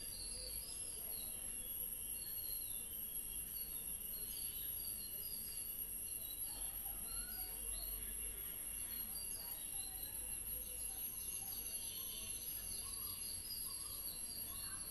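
Small birds chirping in the background: many short, high, falling chirps repeated about twice a second, over a steady high-pitched whine.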